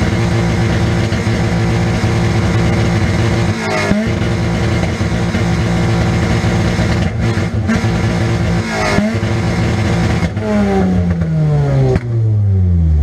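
Nissan Pulsar's 1.8-litre four-cylinder engine, heard from inside the cabin, held at high revs. Twice the revs dip sharply and climb straight back, and near the end they fall away steadily.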